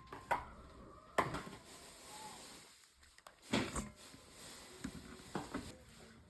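A few scattered, sharp light knocks and clicks in a small room, with quieter handling noise between them.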